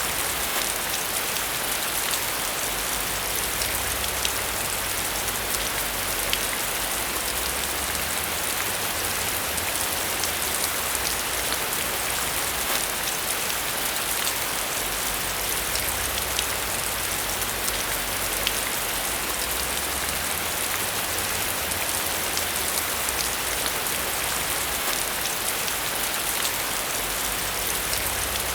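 Steady rainfall on a surface, an even hiss dotted with many small drop ticks, with a faint low rumble underneath.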